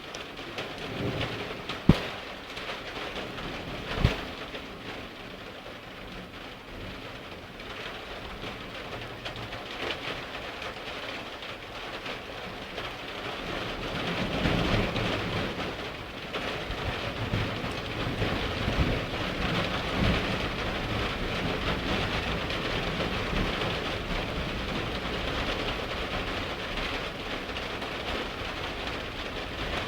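Heavy rain falling steadily during a thunderstorm, with low rumbles of thunder. Two sharp knocks come in the first few seconds, and the rain grows louder about halfway through.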